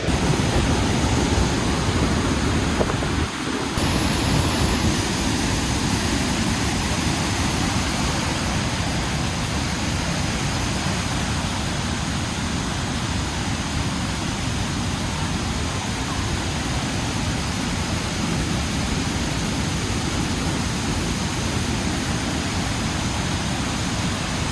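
Steady loud rushing noise that changes character slightly about four seconds in.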